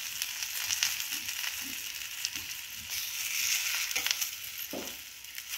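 Alu vadi (colocasia-leaf rolls) shallow-frying in oil on a flat griddle pan, a steady sizzle. A metal spatula clicks and scrapes on the pan a couple of times about four seconds in.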